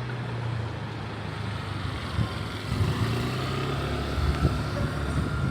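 A motor vehicle's engine running steadily close by, a low hum over general city street noise, with a few light knocks.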